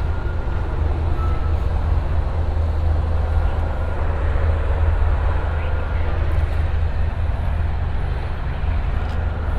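Steady background traffic noise with a deep, continuous rumble.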